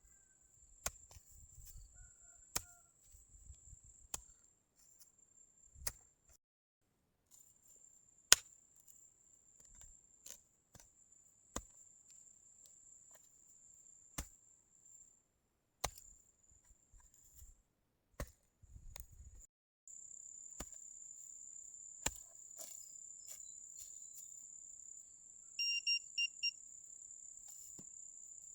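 Crickets trilling steadily, with a few short breaks and louder in the last third, over sharp knocks at irregular intervals. Near the end comes a quick run of four electronic beeps from a metal detector.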